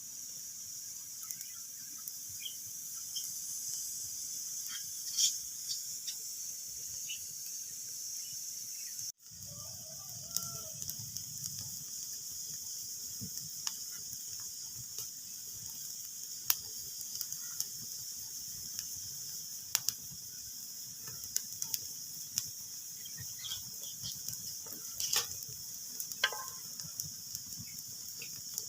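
Wood fire crackling in a fireplace: a steady hiss with irregular sharp pops and snaps, a few of them loud. The sound cuts out for an instant about nine seconds in.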